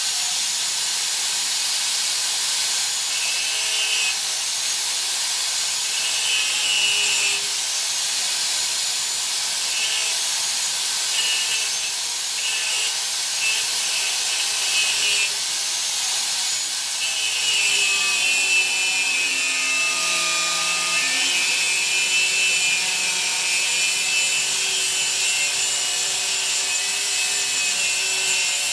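Power tool cutting steel, most like an angle grinder: a steady hiss with a high whine that comes and goes in the first half, then holds steadily from about two-thirds of the way through.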